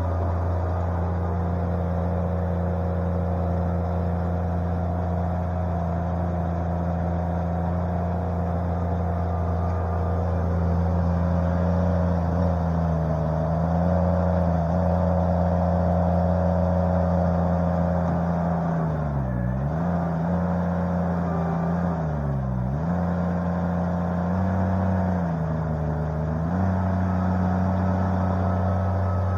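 Derette V1000 mini skid loader's engine running steadily at working speed. Its pitch sags and recovers about four times in the second half, the engine lugging briefly under load as the machine works dirt.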